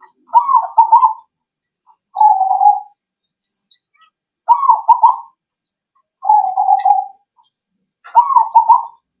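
Zebra dove (perkutut) cooing song: five short, loud phrases about two seconds apart. Phrases of curving, stepped coos alternate with flatter, rolling ones.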